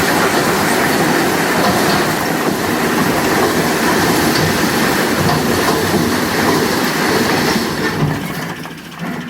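A trolley-load of bricks sliding and clattering off a tipping tractor trolley in one continuous loud rattle that dies away near the end.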